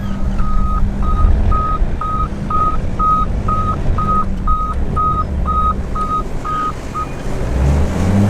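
Off-road end-dump truck's engine running, with an electronic warning beeper sounding a single high tone about twice a second until it stops about seven seconds in.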